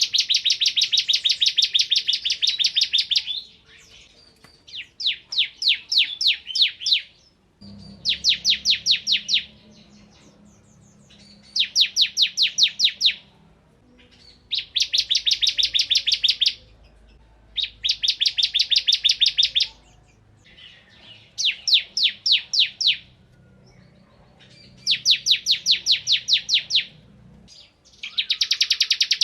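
Bar-winged prinia (ciblek kristal) singing its rapid-fire 'ngebren' song: bursts of quick, evenly repeated sharp chirps, each burst lasting two to three seconds, repeated about nine times with short pauses between.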